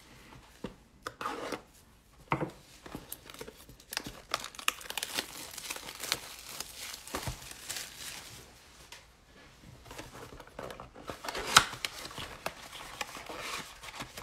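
A foil trading-card pack wrapper being torn open and crinkled by hand: irregular crackling rustles, with a sharp rip about three-quarters of the way through.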